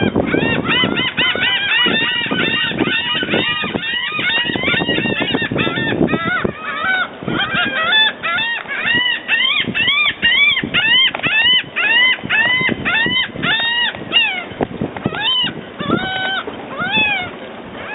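Gull calling in a long rapid series of short, arched yelping notes, several a second, thinning to fewer, spaced-out calls near the end.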